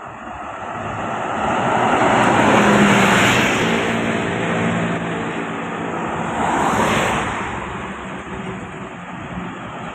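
Road traffic: motor vehicles passing by on a road, with two passes swelling up and fading, about three seconds and seven seconds in, over a steady engine drone.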